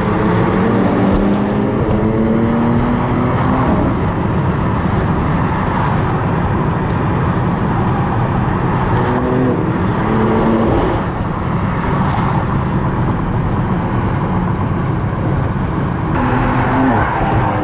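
Car engine accelerating hard over heavy road and wind noise, its pitch rising through the revs over the first few seconds, again about nine seconds in and near the end.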